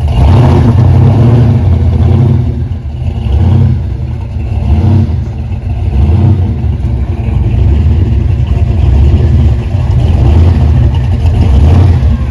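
A car engine running loudly with a deep, low rumble that swells and eases every second or two.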